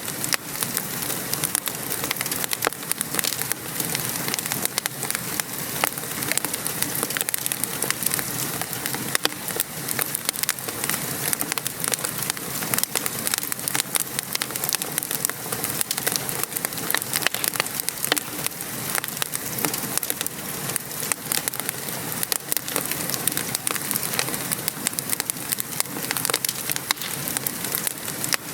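Wood fire crackling, with frequent sharp pops, over the steady hiss and patter of gentle rain.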